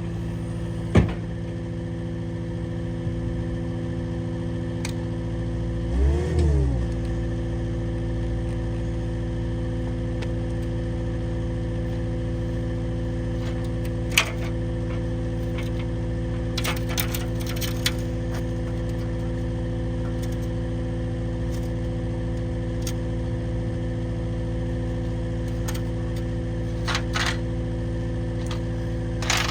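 Skid steer engine idling steadily, revved briefly about six seconds in. A few sharp knocks and short clatters sound over it, near the start, in the middle and near the end.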